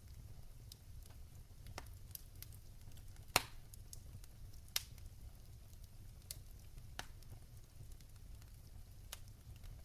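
Fire in a fireplace crackling over a steady low rumble, with irregular sharp pops and snaps; the loudest pop comes a little over three seconds in.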